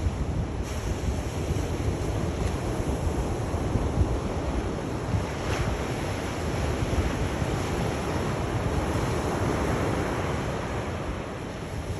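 Sea waves washing onto the shore: a continuous rushing surf, with a low rumble of wind on the microphone.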